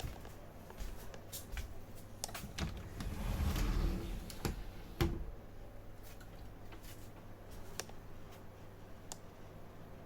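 Scattered snips and light clicks of vines being cut back by hand, with a longer rustle of foliage about three seconds in and a sharp knock about five seconds in.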